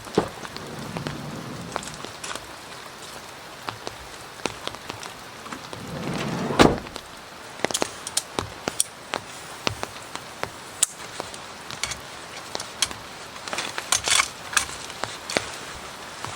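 Rain falling with a steady hiss, individual drops striking close by as many sharp irregular ticks. About six and a half seconds in, a short swelling low rumble ends in a single loud knock.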